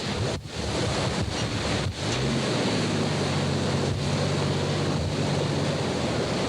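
Storm wind buffeting the microphone over the noise of heavy hurricane surf. A vehicle engine runs underneath as a low hum, and its pitch rises about two seconds in. The sound cuts out briefly a few times in the first two seconds.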